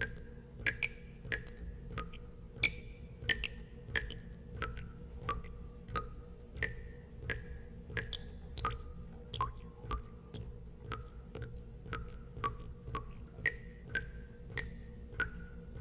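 Water drops falling into water: a steady run of plinks at about two a second, each a sharp tap with a short ringing tone whose pitch changes from drop to drop, over a low steady hum.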